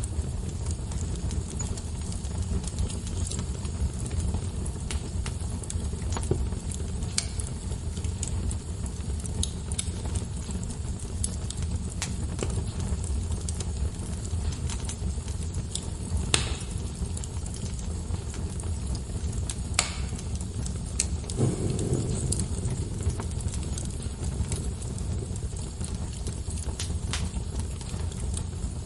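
Wood fire burning: a steady low rumble of flames with scattered sharp crackles and pops at irregular intervals.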